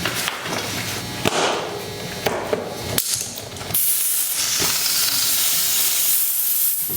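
Compressed air inflating a tubeless bicycle tire to seat its bead: a few sharp clicks and knocks, then from about four seconds in a loud, steady rush of air.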